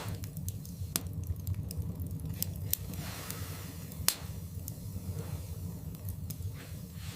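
Wood fire burning in a fireplace: a steady low rumble of flames with frequent sharp crackles and pops from the logs, the loudest pop about four seconds in, and a soft hiss around three seconds in.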